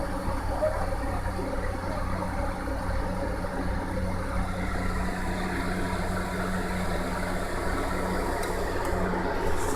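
Steady low mechanical hum, engine- or motor-like, holding an even pitch throughout with a noisy background haze.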